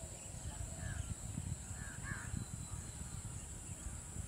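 A bird calling in short bursts, once about a second in and more strongly about two seconds in, over a steady high insect drone and a low rumble.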